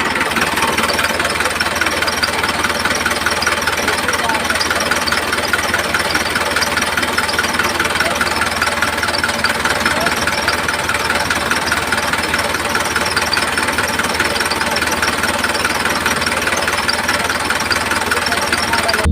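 Small electric motor running steadily with a buzzing rattle, as in a DIY model's DC motor or mini water pump.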